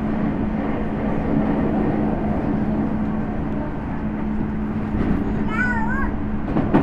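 Interior running noise of a Tokyu 5050 series 4000-subseries electric train: a steady rumble of wheels on rail under a low steady hum. Near the end there is a brief high wavering squeal, then a single knock.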